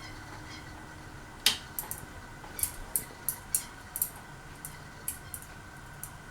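Sierra ceiling fan running with a steady motor hum and a faint high whine, under irregular sharp clicks and ticks, the loudest about a second and a half in.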